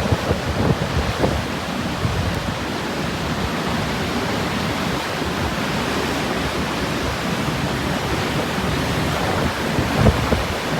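Typhoon wind blowing hard over a steady rush of surf, buffeting the microphone in low gusts near the start and again about ten seconds in.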